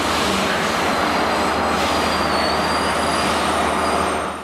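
Yellow Network Rail HST, a class 43 diesel power car with Mk3 coaches, running slowly alongside a platform. A steady diesel hum sits under dense wheel-and-rail noise, with a faint high-pitched wheel squeal.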